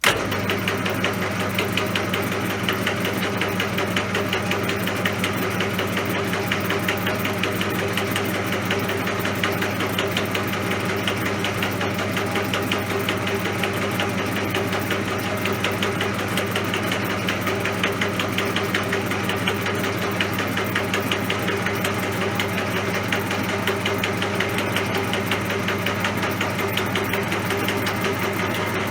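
CJM360 benchtop metal lathe running steadily: a constant low hum with a fast, even rattle over it.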